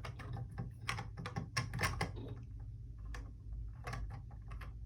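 Plastic Lego pieces clicking and rattling as they are handled and pressed into place, a quick run of clicks in the first two seconds, then scattered single clicks.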